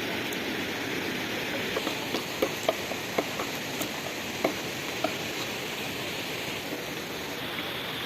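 Steady rush of falling water from a waterfall, with a scatter of small sharp clicks between about two and five seconds in.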